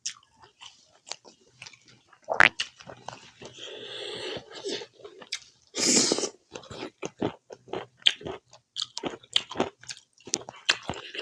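Close-miked chewing of pork curry with rice: many short wet mouth clicks and crunches, with louder bites about two and a half and six seconds in.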